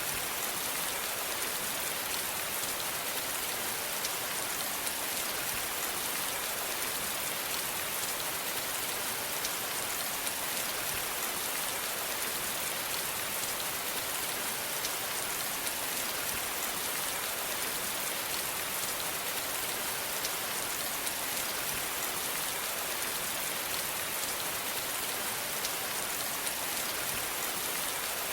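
Steady rain falling, an even hiss of many small drops hitting a surface, with no change in intensity and no thunder.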